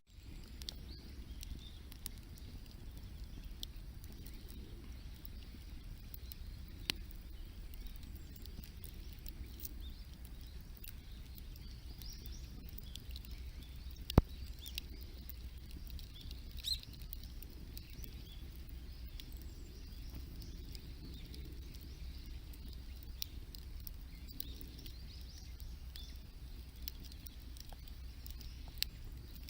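Wood campfire burning large logs, crackling with scattered sharp pops, the loudest about fourteen seconds in, over a steady low rumble.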